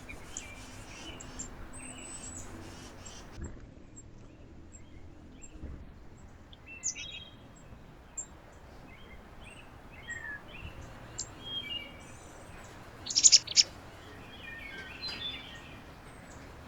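Small birds at a backyard feeder chirping and calling in short, scattered high notes, with a loud burst of sharp calls about thirteen seconds in. A low background rumble runs underneath.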